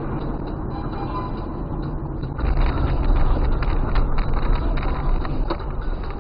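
A vehicle driving: a steady low rumble of road and engine noise that grows louder about two and a half seconds in, with a few scattered knocks.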